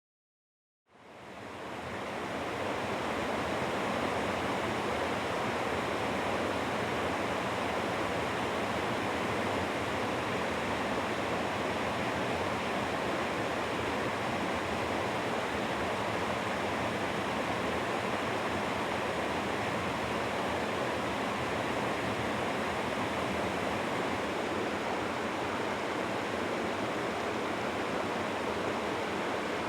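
Rushing water of a low, river-wide waterfall and rapids, a steady dense rush that fades in about a second in and then holds even.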